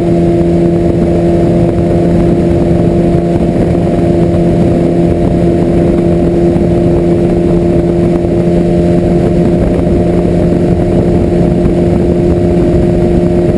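Motorcycle engine running at a steady cruising speed, its note holding level with no revving, over a heavy low rush of wind and road noise.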